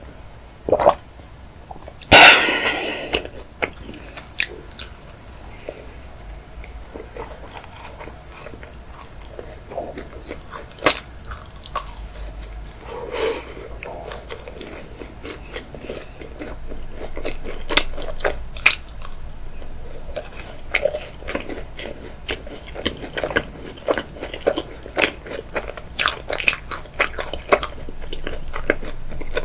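Close-miked eating sounds: a drink from a glass of an iced drink with a loud swallow about two seconds in, then bites into a chocolate macaron and steady chewing, with soft crunches and many wet mouth clicks.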